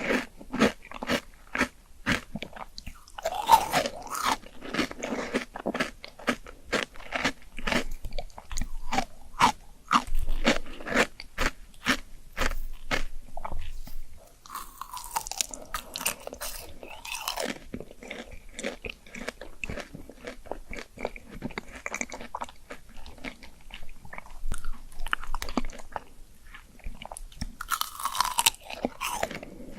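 Close-up bites and chewing of crunchy fruit: a steady run of wet crunches and clicks from chewing, with a few louder bites scattered through.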